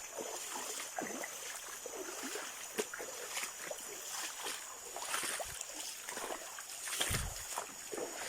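Water splashing and trickling, with irregular small splashes and a louder one about seven seconds in, over a faint steady high-pitched tone.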